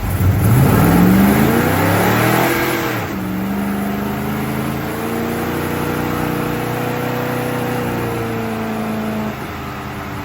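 Car engine revving: it climbs quickly in pitch for a couple of seconds, drops back, then holds at a steady raised speed for several seconds before falling off near the end.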